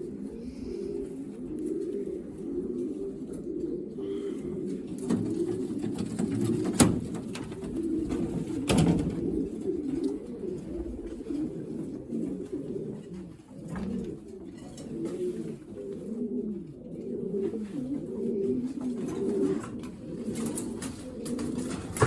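Racing pigeons cooing, many birds at once in a continuous overlapping chorus of low coos. A few sharp knocks break through, the loudest about seven seconds in.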